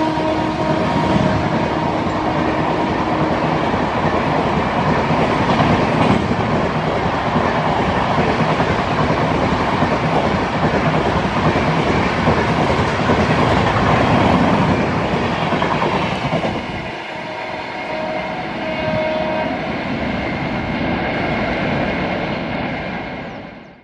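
Passenger coaches of an express train running past at speed: a steady rush of wheels on rail with clickety-clack over the rail joints, and a horn dying away in the first few seconds. About seventeen seconds in the sound drops and changes, then it fades out at the very end.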